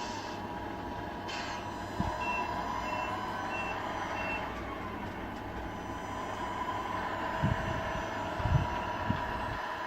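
Radio-controlled scale truck's electronic sound unit playing a running truck engine with a reversing beeper: four short high beeps a little over half a second apart, then the engine sound carries on. A few low thumps sound, one about two seconds in and several near the end.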